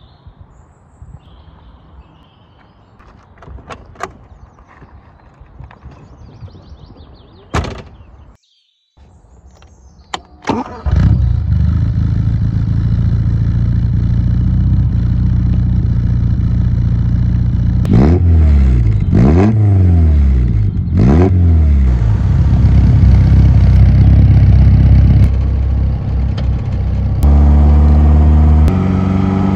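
Lotus Elan S4's twin-cam four-cylinder engine comes in loudly about ten seconds in after a quiet stretch with a few clicks, then idles. It is revved up and back down three times in quick succession, and near the end the note steps up and holds steady.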